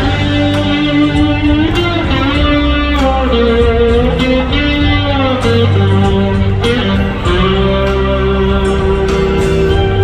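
Live rock band playing an instrumental break: an electric guitar lead with held, bending notes over bass and drums.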